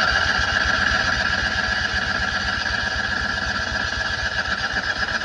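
Citroën 2CV's air-cooled flat-twin being turned over on the electric starter: a steady whine over an even, rapid pulsing, with the engine not catching.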